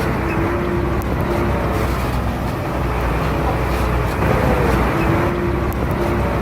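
Heavy diesel earthmoving machinery running steadily under load, with a fainter whining tone that comes and goes twice.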